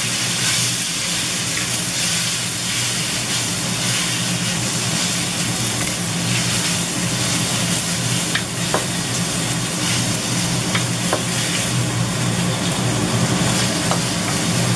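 Thin slices of marinated beef sizzling in a stainless steel wok over a gas flame as a spatula keeps turning them. A few light clicks come from the spatula striking the wok in the second half.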